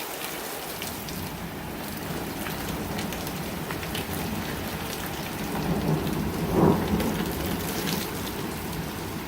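Heavy wind-driven rain of a severe thunderstorm pouring down steadily, with a louder swell about two-thirds of the way through.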